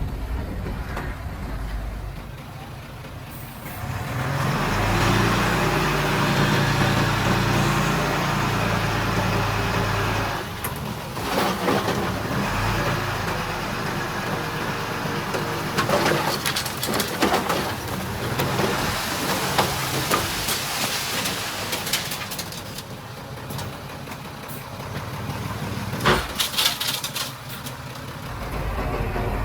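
Diesel engines of a small crawler bulldozer and dump trucks at work. A steady low engine drone swells louder for several seconds from about four seconds in. Bursts of clanking and rattling are scattered through.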